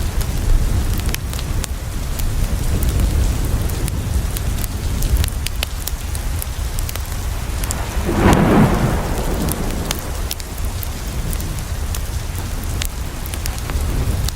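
Steady rain falling on a window, with sharp pops from a crackling wood fire. A rumble of thunder swells and fades about eight seconds in.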